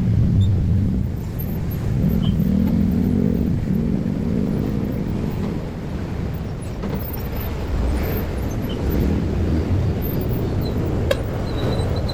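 Steady low rumble of a vehicle engine, with a few sharp clicks starting near the end.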